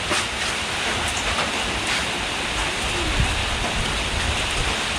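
Steady rain falling, an even dense hiss with a few faint taps of drops.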